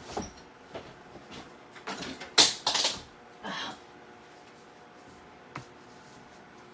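Scattered clicks and clatters of small objects being handled and set down on a kitchen counter. A louder clattering pair comes about two and a half seconds in, followed by a single click later on.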